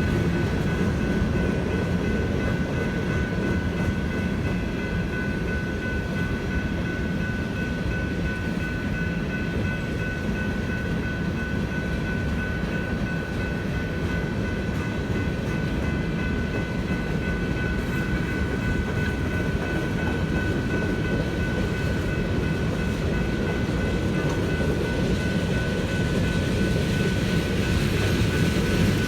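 Freight train cars rolling steadily past a grade crossing: a continuous low rumble with a steady high ringing tone over it.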